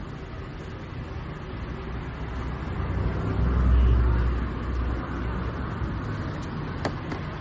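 A motor vehicle's low rumble, swelling to its loudest about halfway through and then easing off, with a sharp click near the end.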